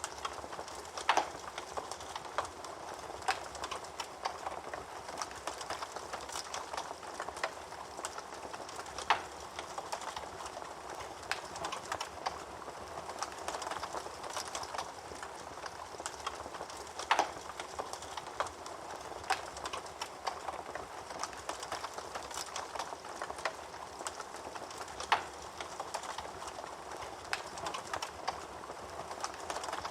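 Wood fire burning in a fireplace: steady crackling with frequent small pops and a few louder, sharp snaps.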